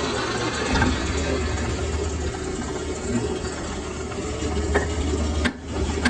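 Steady rushing noise with a low hum beneath it, dropping out briefly near the end.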